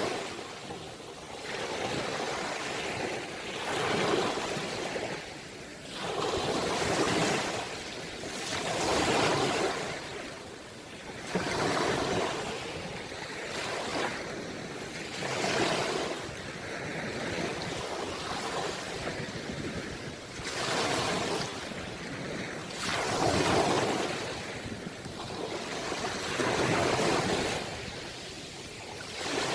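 Ocean waves breaking and washing in, the sound swelling and falling away in surges every two to four seconds.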